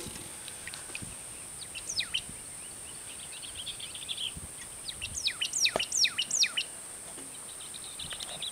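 Songbirds singing: a few quick falling chirps about two seconds in, a short buzzy trill, then a run of falling chirps around five to six and a half seconds in.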